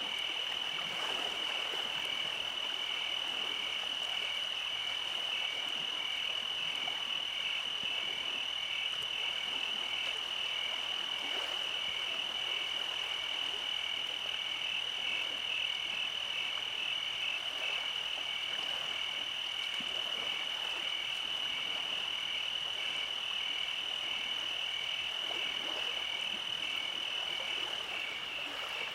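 Night chorus of frogs and insects calling without pause: a steady high trill with a regular pulsing call just beneath it. A fainter, thinner high tone drops out near the end.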